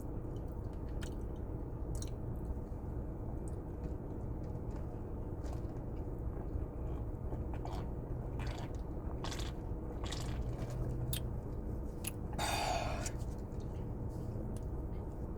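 A person chewing a mouthful of double chocolate donut, with small wet mouth clicks throughout and a short noisy burst about twelve seconds in, over a steady low background hum.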